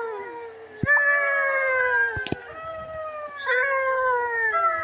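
A cat meowing: long drawn-out meows, one after another, each sliding down in pitch.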